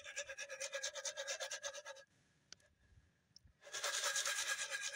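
Popcorn kernels being swirled around in a pot with oil and salt: a fast, rasping rattle that stops for about a second and a half midway, then starts again.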